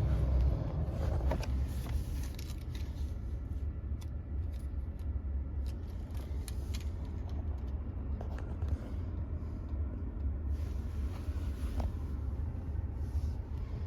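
Steady low vehicle rumble with a few scattered light clicks.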